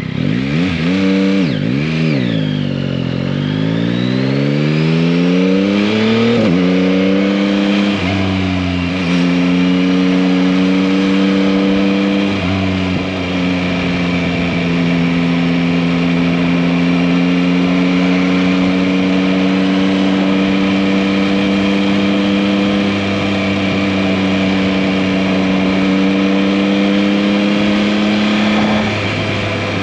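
Yamaha MT-09's 890 cc inline three-cylinder engine under way, revving up and dropping several times as it accelerates through the first seconds. It then holds a steady note at cruising speed, with a brief dip in revs near the end.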